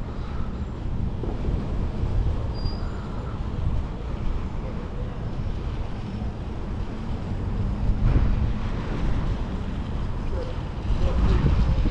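Outdoor street ambience dominated by wind buffeting the microphone as a low, fluttering rumble, with faint voices near the end.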